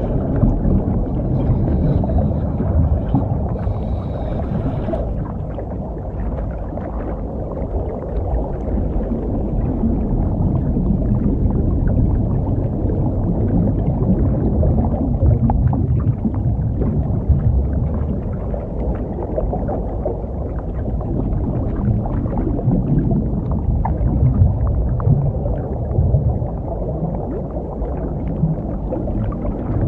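Muffled underwater rumble and gurgling of a scuba diver's breathing bubbles, heard through the camera's underwater housing. It is a steady low sound that swells and eases irregularly.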